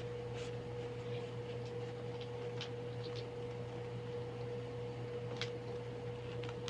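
Room air conditioner running: a steady low hum with a constant thin whine over it, and a few faint light ticks scattered through.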